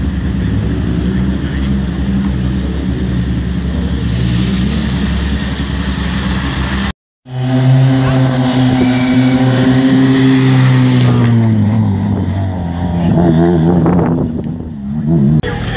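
Rally car engine idling with a steady note. The sound cuts out briefly about seven seconds in, then a louder car engine holds a steady note before its pitch falls.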